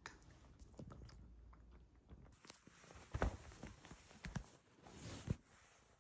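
A few faint, irregular soft knocks and crunching noises, the loudest about three seconds in.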